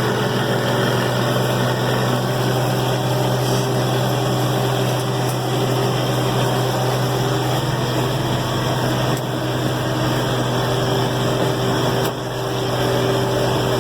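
New Holland 1400 combine's engine running steadily with a constant low hum, heard from the operator's cab while the machine drives.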